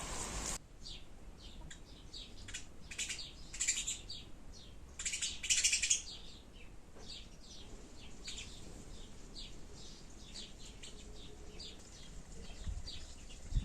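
Small birds chirping in a steady run of short, high chirps, with louder bursts around three and five seconds in.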